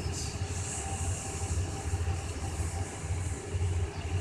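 Diesel-hauled passenger train pulling away from the station: a low, uneven engine rumble with a steady hiss of wheels on rail.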